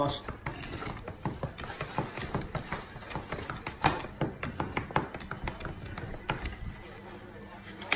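Plastic takeout container being opened and handled, its lid and sides crackling and clicking irregularly.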